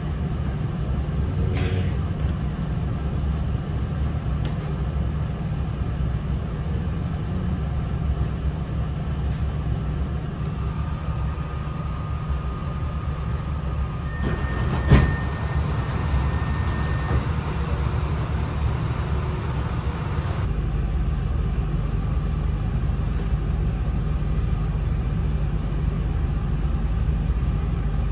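A CAF Class 3000 diesel multiple unit running, heard from inside the train: a steady low rumble of its underfloor diesel engines and wheels on the track. About halfway through comes one sharp knock, with a faint high whine for a few seconds around it. About two-thirds of the way in the low rumble becomes heavier.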